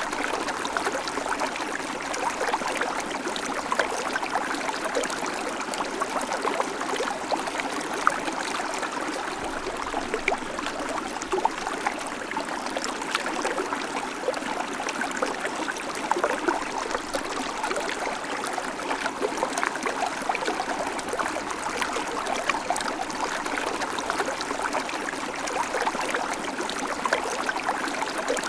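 Small creek babbling over stones: a steady rush of water dotted with quick small splashes and trickles.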